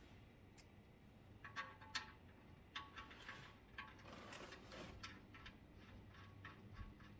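Faint, irregular light clicks and clinks, a few scattered over several seconds, against near silence.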